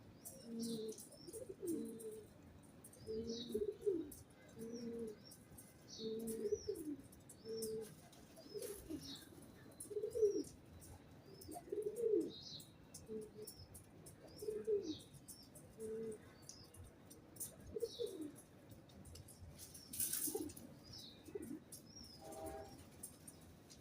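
Pigeons cooing over and over in low phrases, with small birds giving short high chirps above them. One brief rustling burst about twenty seconds in.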